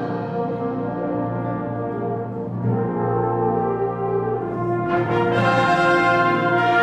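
Concert band playing live, with sustained brass chords to the fore. The music is softer at first and swells fuller and brighter about five seconds in.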